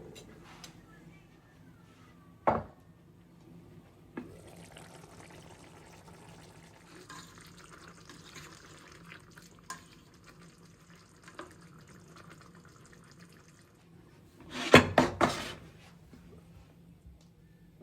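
Kitchen sink sounds: water running from a tap, with a sharp knock a couple of seconds in and a louder clatter of dishes near the end.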